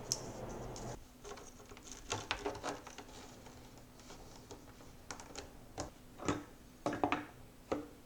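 Irregular light clicks and knocks of kit parts being handled and fitted together, a few louder taps among them, over a faint steady hum.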